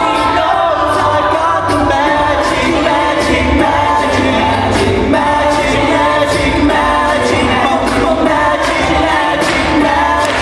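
A cappella group singing a song in several voice parts, with a steady beat of sharp percussive hits running under the harmonies.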